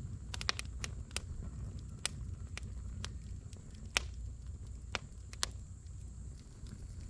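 Wood fire in a fire pit crackling: sharp pops scattered irregularly, a quick cluster in the first second and the loudest about four seconds in, over a low steady rumble from the flames.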